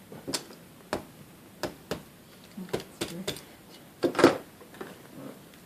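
About eight sharp, light taps and clicks at uneven intervals, the loudest about four seconds in: the shell of a hot balut egg being tapped and cracked open.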